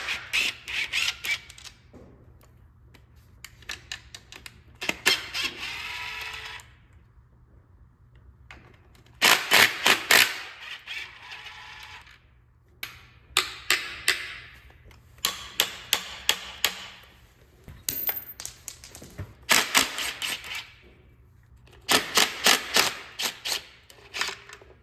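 Hand socket ratchet clicking in quick bursts of several strokes, loosening the intake manifold bolts, with a metallic ringing after a few of the bursts.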